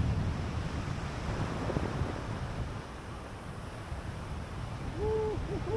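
Wind rumbling on the microphone. About five seconds in, two or three short pitched calls rise and fall in pitch.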